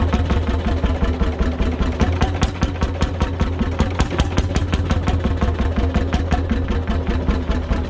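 A 9/11 hp two-stroke McDonald PB 'Super Diesel' engine running steadily, with an even, rapid beat.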